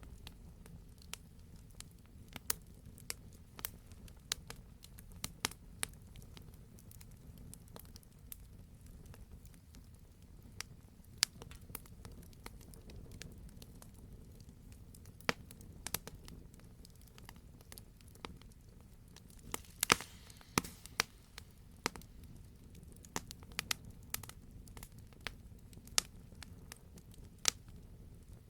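Wood fire in a fireplace crackling, with irregular sharp pops over a low steady rumble of the flames; a brief flurry of louder pops about two-thirds of the way through.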